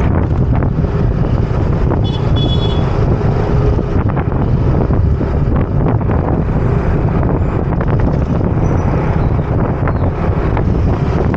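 Heavy wind buffeting on the microphone of a moving motor scooter, a dense steady rumble over engine and traffic noise. A brief high-pitched tone sounds about two seconds in.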